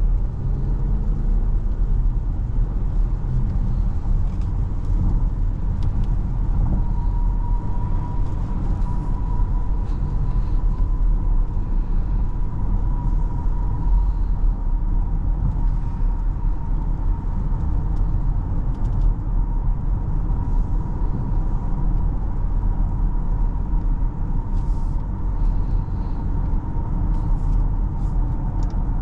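Cabin noise of a 2024 Porsche Cayenne driving on a rain-wet road: a steady low rumble of tyres and engine, with a faint thin steady whine coming in about a quarter of the way through.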